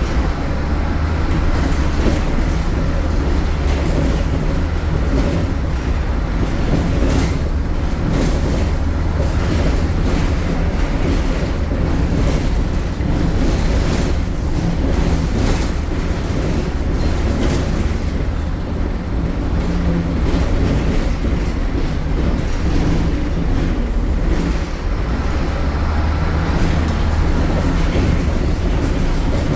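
MAN A76 Lion's City city bus's MAN Euro 4 diesel engine running under way: a loud, steady low rumble with frequent short rattles and knocks.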